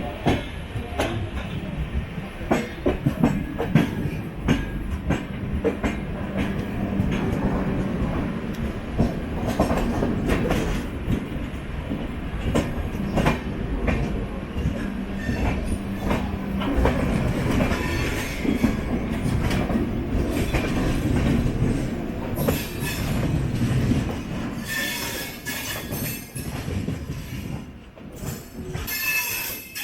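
Passenger train with LHB coaches running along the track, heard from on board: a steady rumble with clacks of the wheels over the rails and a low hum through the middle. High-pitched wheel squeal comes in over the last few seconds.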